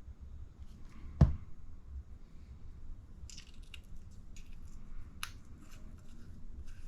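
Small RC shock parts being handled on a workbench: one sharp knock about a second in, then a run of light clicks and ticks.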